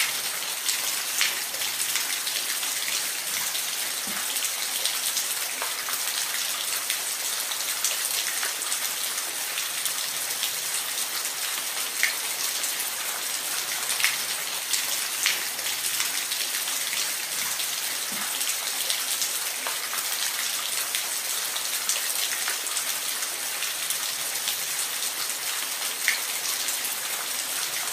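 Steady hiss of falling water, dotted with occasional sharper drips and splashes.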